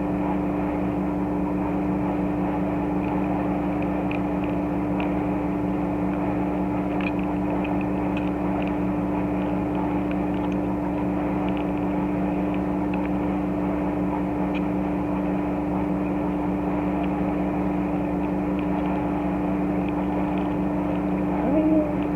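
Steady mechanical hum with two constant droning tones, with faint light clicks of plastic toy parts being handled scattered through it, and a short rising sound near the end.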